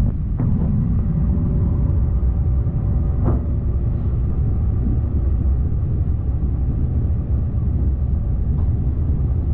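Steady low rumble of an Airbus A350-900 heard from inside the cabin, with a brief higher sound about three seconds in.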